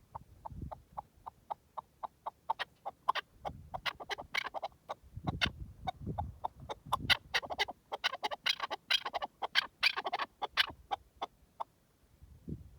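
Chukar partridge calling: a run of short clucking notes, about three a second at first, quickening and growing fuller into a rapid chattering burst about eight to ten seconds in, then slowing again. Low rumbles sound underneath now and then.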